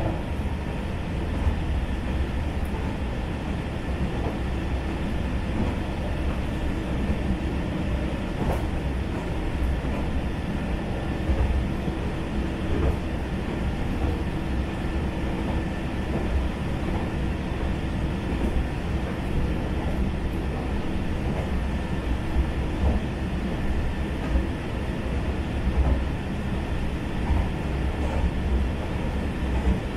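Steady running noise inside a single-car diesel railcar cruising along a rural line: a low rumble of engine and wheels on rail, with a few faint clicks from the track.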